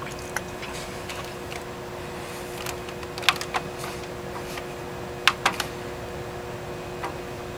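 Steady mechanical hum with two steady tones, broken by scattered sharp ticks that are loudest about three and a half and five and a half seconds in.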